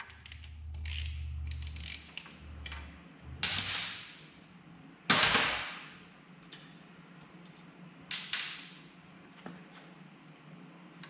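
Hand tools working a steel engine-mount bolt out of a motorcycle frame: small clicks and three loud, sharp metal knocks about three and a half, five and eight seconds in, each ringing out briefly.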